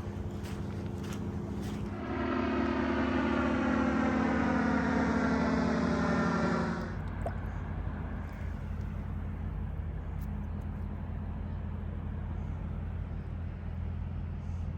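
Motorcycle engine running steadily. For about five seconds, starting about two seconds in, a louder note rises out of it whose pitch falls steadily, as when the revs drop.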